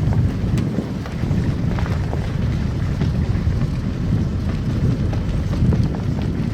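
Car driving on a snow-covered road: a steady low rumble of tyres and engine, with a few faint scattered clicks.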